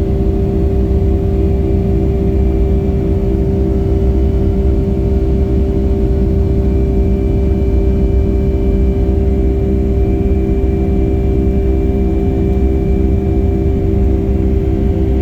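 Boeing 757-300's jet engines heard from inside the passenger cabin: a loud, steady low rumble with a constant hum over it, holding even throughout.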